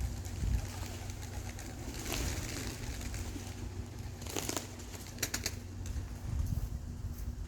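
Domestic pigeons cooing over a low wind rumble on the microphone, with a few sharp flapping sounds about four and a half to five and a half seconds in.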